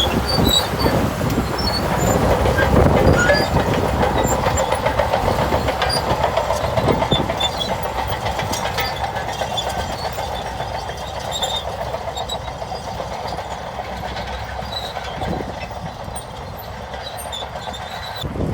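Shantui bulldozer's diesel engine running under load, with a dense, steady clatter of its steel tracks, growing a little quieter toward the end.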